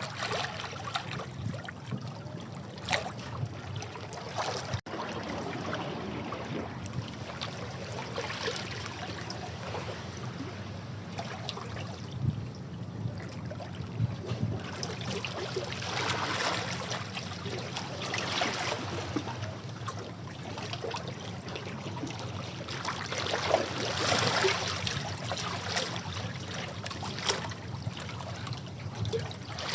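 Sea waves washing and splashing over rocks in a continuous surf wash, with louder surges about halfway through and again near the end. A momentary dropout breaks the sound about five seconds in.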